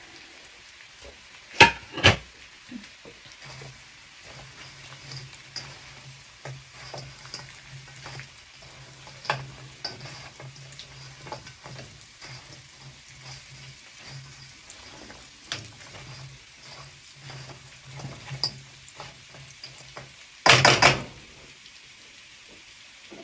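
Fried chicken wings sizzling quietly in a wok of garlic sauce as they are stirred with a spatula, with scraping and knocking of the spatula against the pan. Two sharp knocks come about two seconds in, and the loudest knocks come a couple of seconds before the end. A low hum comes and goes underneath.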